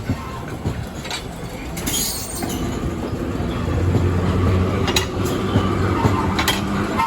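Train cars rolling past on the rails, the rumble building and holding about halfway through, with a steady low hum and a few sharp clacks of wheels over rail joints.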